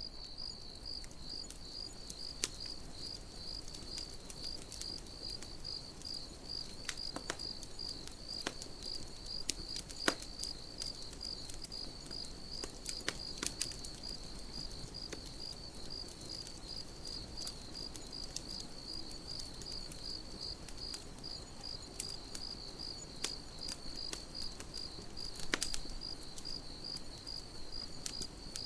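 Crickets chirping in a steady, evenly repeated rhythm, with a campfire crackling underneath and giving off occasional sharp pops.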